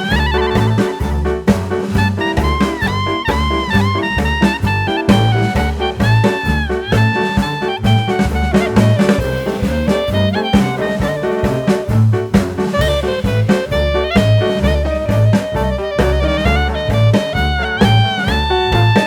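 Live band music: a shrill lead melody with long, sliding high notes over a steady bass and drum beat.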